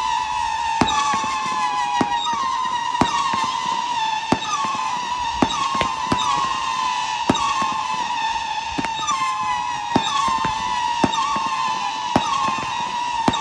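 500-gram Kong consumer firework cake firing whistling effects: a continuous overlapping whistle, each new one hooking up and then sinking slightly in pitch. Sharp pops come about once a second.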